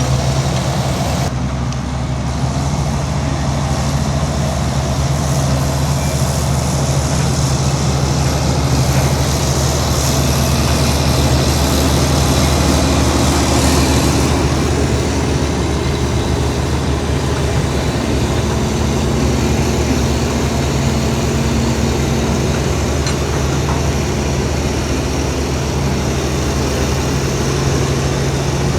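Heavy diesel engine running steadily at a constant pitch.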